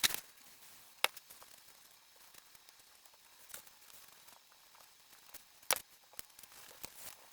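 Handling noises: a few sharp clicks and knocks, the strongest at the start, about a second in and near six seconds, over a faint hiss.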